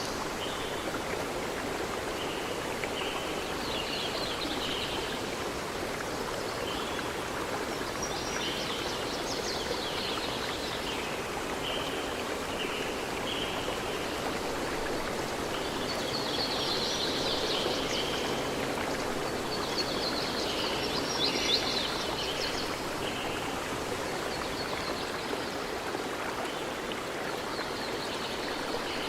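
Steady rushing of a flowing stream, with birds chirping in short bursts over it, busiest a little past halfway.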